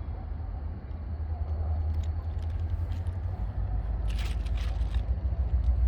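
Low, steady rumble of EMD GP40-2 diesel locomotives working nearby, with a few short rattles or clicks about four seconds in.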